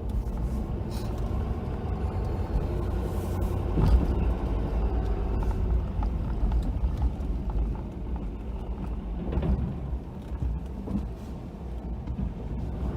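Ford F-250 plow truck's engine running as it plows snow, heard from inside the cab, with scattered knocks and a louder thump about four seconds in.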